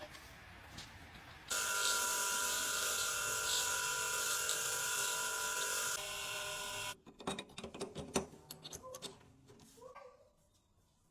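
A small power tool runs steadily with a high whine and hiss for about five seconds, starting and stopping abruptly. It is followed by a few seconds of sharp clicks and knocks as parts are handled.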